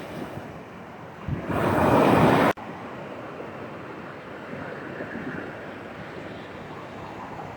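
Surf washing on a beach, with wind buffeting the microphone. About a second and a half in, a louder rush of surf builds, then cuts off suddenly.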